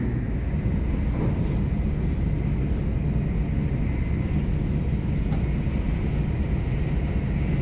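Steady low rumble and running noise of a Shinkansen bullet train heard from inside the passenger cabin while travelling, with a faint click about five seconds in.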